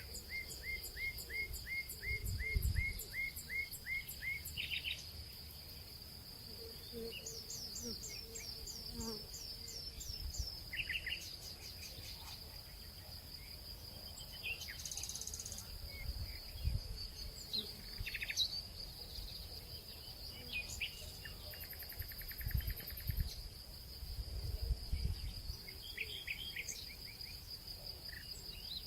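Nature ambience: insects keep up a steady high-pitched drone while birds call over it. There is a run of short repeated chirps in the first few seconds, a quick series of sweeping notes about eight seconds in, and scattered calls after that. A few soft low thumps come now and then.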